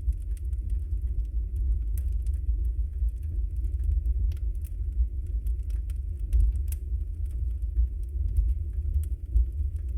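Log fire burning in a fireplace: a steady low rumble of flames with scattered sharp crackles and pops throughout.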